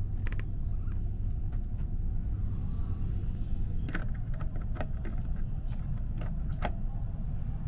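Steady low rumble of the Hitachi express's E657-series electric train running, heard inside the passenger cabin. Several sharp clicks, most in the second half, as fingers adjust the plastic air vent louvers.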